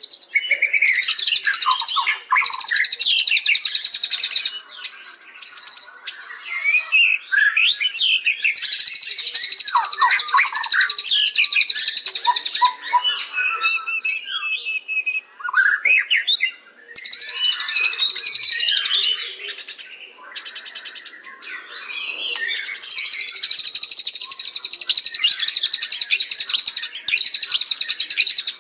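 White-rumped shama (murai batu) singing: varied whistled phrases that slide up and down, alternating with long, rapid, high-pitched trills that each run for a few seconds.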